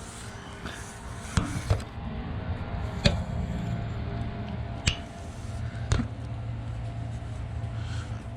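1989 Bryant 3-ton straight-cool condensing unit running, a steady low hum from its Bristol reciprocating compressor and condenser fan. A few sharp clicks are scattered through it.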